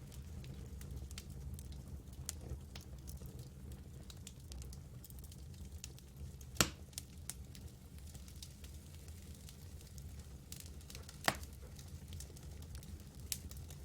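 Campfire burning, the wood crackling with frequent small snaps and two louder pops, about six and eleven seconds in, over a steady low rumble.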